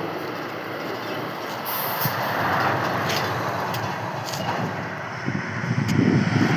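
Steady road and engine noise of a moving vehicle, with a louder low-pitched stretch near the end.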